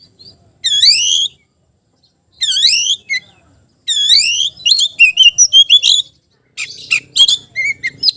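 Oriental magpie-robin singing a challenge call at a rival: three loud swooping whistles about a second and a half apart, then a fast run of varied high notes and harsh, clicky chattering in the second half.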